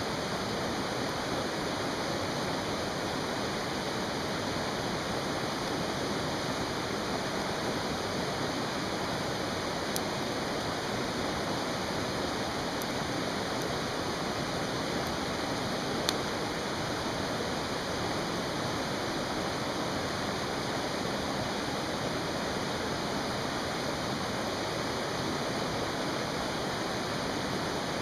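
Mountain stream rushing steadily, with two sharp pops from the burning campfire wood, about ten and sixteen seconds in.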